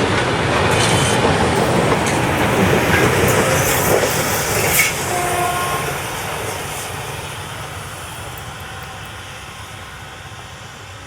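A railway locomotive running past on the track, loud with clicks from the rails, then fading steadily away. There is a brief squeal about five seconds in.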